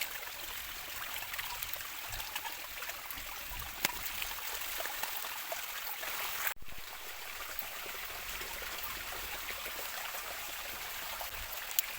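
Steady rushing water in a rainforest, rain and a nearby river blending into an even hiss, with a few sharp ticks of falling drops. It breaks off for an instant about halfway through.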